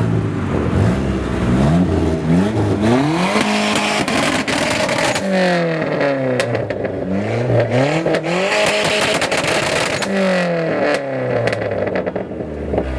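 A performance car engine revved hard several times, its pitch climbing and falling back again and again, with sharp crackles and pops from the exhaust.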